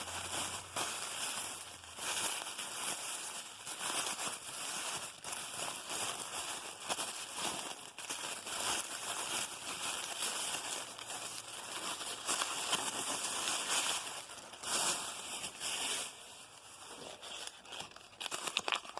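Paper gift wrapping crinkling and rustling as it is handled and pulled off a packaged item, in irregular bursts, quieter for a moment near the end.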